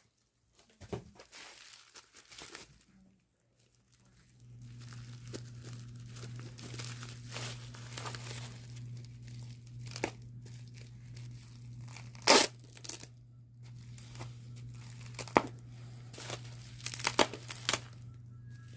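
Packaging being handled, torn and crinkled, with scattered sharp crackles and rustles, one much louder crackle about twelve seconds in. A steady low hum starts about four and a half seconds in.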